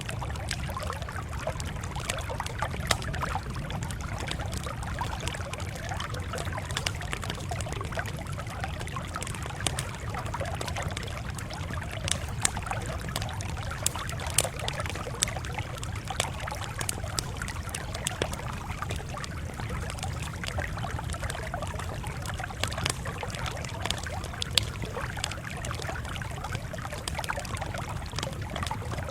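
Campfire crackling: a steady hiss and low rumble with frequent sharp snaps and the odd louder pop.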